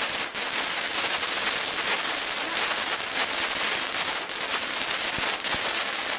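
A firework hissing steadily with dense, fast crackling throughout.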